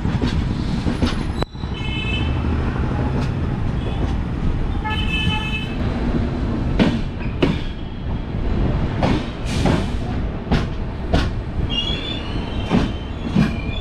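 Passenger express train rolling into a station, heard from the coach doorway: a steady low rumble of the running train. In the second half, wheels clack over rail joints in pairs about half a second apart, a pair every couple of seconds. A few brief high-pitched ringing tones sound near the start, in the middle and near the end.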